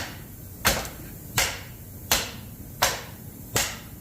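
Hammer blows on a seized distributor in a Ford 429 big-block engine, struck in a steady rhythm of about three blows every two seconds, six in all. The distributor is being beaten out because it will not come loose.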